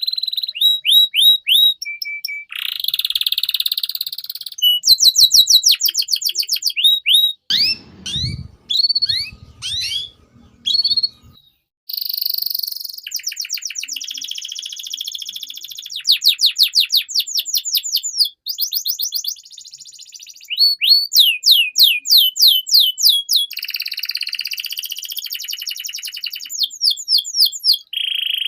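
Domestic canary singing a long, continuous song of rapid trills and rolls, built from quickly repeated high notes with buzzy passages and brief pauses between phrases.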